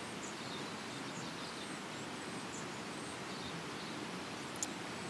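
Steady rain falling, an even hiss with faint high bird chirps over it and a single sharp click near the end.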